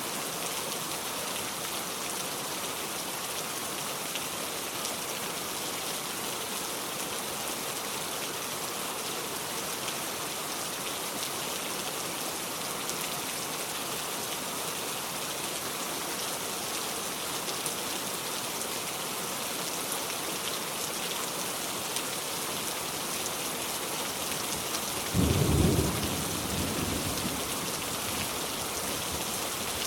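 Steady rain falling, with a sudden clap of thunder near the end that rumbles and fades over a couple of seconds.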